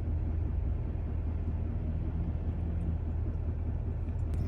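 Heavy diesel engine running in a steady low drone, with no change in pitch.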